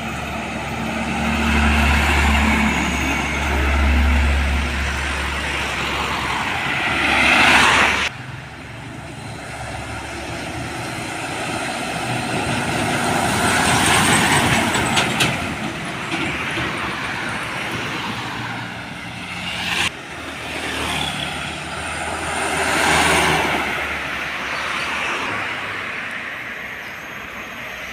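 Heavy diesel trucks passing close by on a road, engine rumble and tyre noise swelling as each one goes past. The sound breaks off sharply twice.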